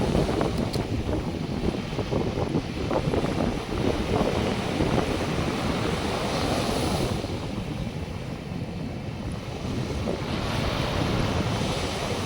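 North Sea surf washing onto the beach, swelling twice with breaking waves, under heavy wind buffeting on the microphone.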